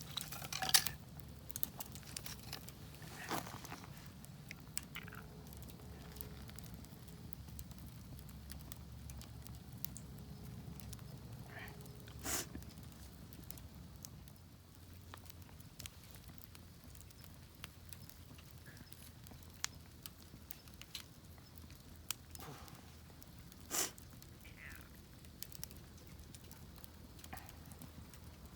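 Wood fire crackling in a Picogrill fire pit: a dense run of small pops with a few sharper snaps, about four in all.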